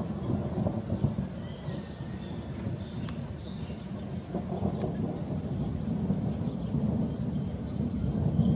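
Low, uneven outdoor rumble, typical of distant thunder ahead of rain, with a thin high chirp repeating about three times a second that stops near the end.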